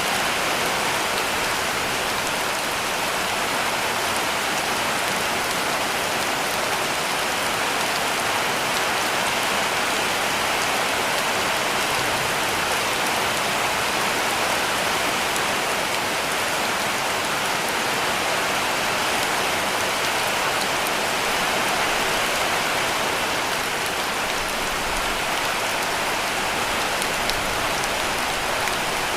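Heavy rain falling steadily on a roof: an even, unbroken hiss with faint scattered drop ticks.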